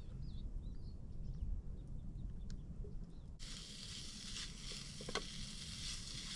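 Bacon sizzling in a hot frying pan, cutting in suddenly about halfway through and carrying on steadily.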